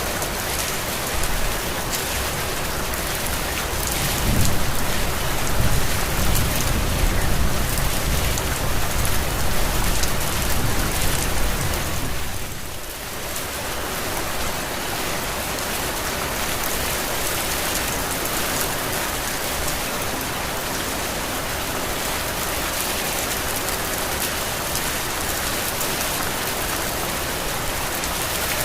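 Heavy rain falling steadily, with a louder low rumble from about 4 to 12 seconds in, after which the sound briefly dips and settles back to a steady downpour.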